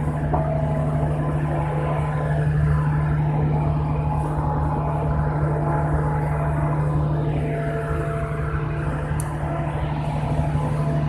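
A large engine running steadily: a constant low drone with a strong hum and a few steady higher tones over it.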